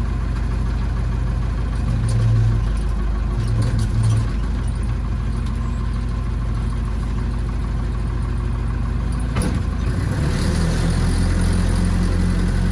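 Massey Ferguson backhoe tractor's engine running steadily just after being started, its note swelling briefly twice in the first few seconds and shifting in pitch about three-quarters of the way through.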